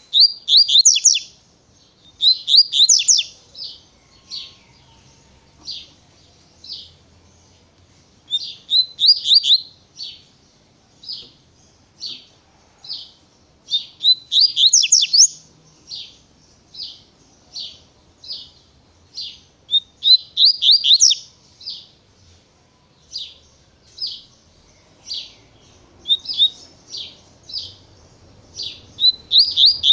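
Double-collared seedeater (coleiro) singing in the tui-tui song style: fast phrases of high, sweeping notes every few seconds, with single short notes about once a second in between.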